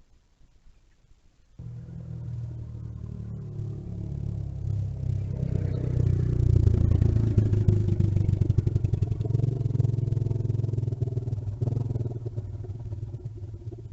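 Mini bike engine running. It starts abruptly about a second and a half in, grows louder to its peak midway, then eases off toward the end.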